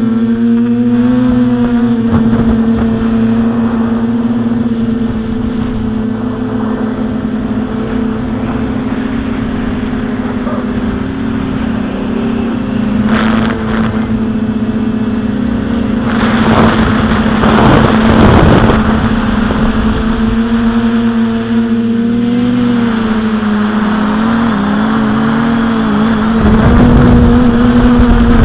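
TBS Discovery multirotor's motors and propellers droning steadily in flight, the pitch rising and falling slightly as the throttle changes. Rough gusts of wind noise come in a few times, loudest towards the middle.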